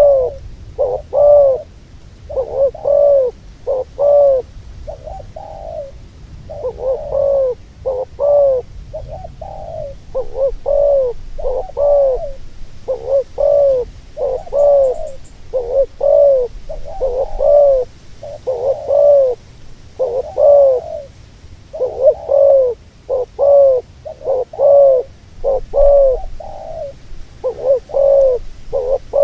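A dove cooing over and over: a long run of short, arched coos, one or two a second, in loose groups with brief pauses.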